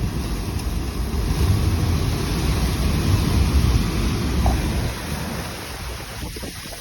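Strong wind buffeting the microphone in gusts, a heavy rumbling rush that is loudest in the middle and eases near the end.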